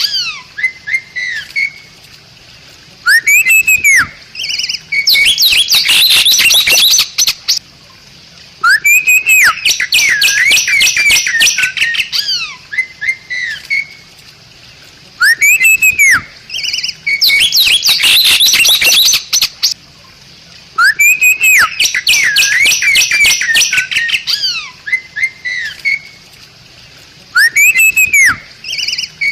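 Bali myna singing, repeating the same phrase about every six seconds: a loud arched whistle that rises and falls, followed by a rapid burst of harsh, scratchy chatter.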